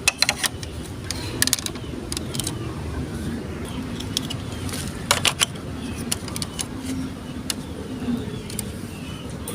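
Marbles rolling along a plastic Lego Duplo block track with a steady rumble, clicking and clacking sharply against the bricks and each other several times, in clusters near the start, about a second and a half in, and about halfway through.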